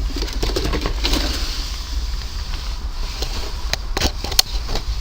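Rain pattering on a greenhouse over a steady low rumble, with a few sharp clicks or knocks about four seconds in.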